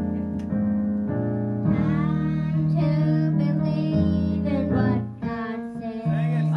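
Youth choir singing a gospel song with piano or keyboard accompaniment and sustained low bass notes; the sound drops briefly about five seconds in before the music returns.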